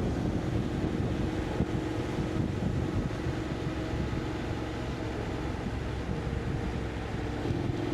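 Motorcycle engine running steadily while riding, with heavy wind buffeting on the microphone. The engine's tone steps slightly higher near the end.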